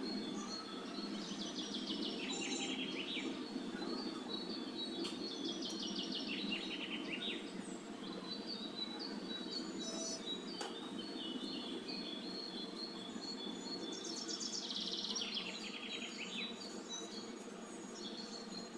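Small birds singing: a quick descending trill heard three times, about a second in, around five seconds in and near fifteen seconds, with short chirps in between, over a steady low background hum.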